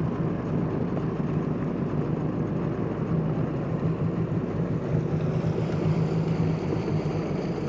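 Jet ski engine idling steadily, a constant low hum.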